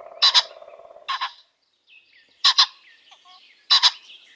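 Pheasant calling: three loud, sharp double-note crows, with a fainter call about a second in.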